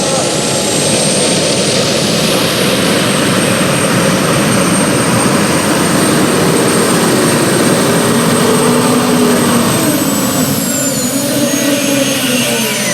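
Turbocharged pulling-tractor engine running flat out, loud throughout, with a high turbo whistle that holds steady and then drops in pitch near the end.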